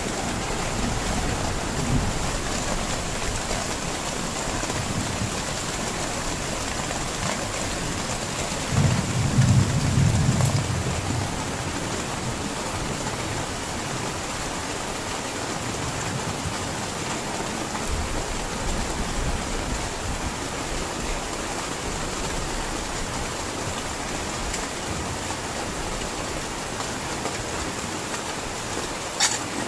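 Heavy rain falling steadily, with a brief low rumble of thunder about nine seconds in and a single sharp click near the end.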